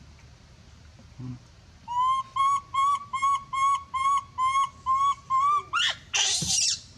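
Animal calls: a run of about a dozen short, even, whistle-like notes, roughly three a second, then one loud harsh scream near the end.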